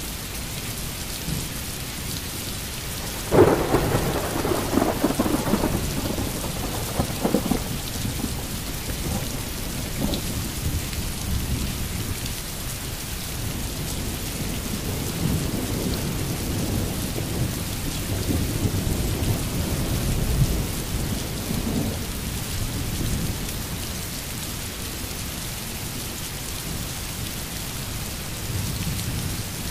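Steady rain with a sudden clap of thunder about three seconds in that rolls on for several seconds. Low thunder rumbles again through the middle.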